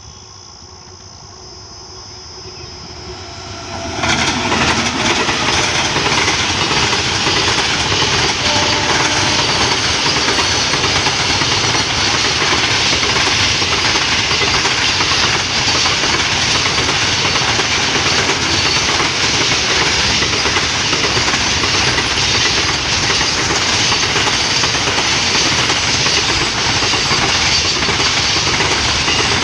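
Container freight train hauled by a WAG9 electric locomotive approaching, growing louder for about four seconds, then running close past with a loud, steady clatter of wagon wheels on the rails.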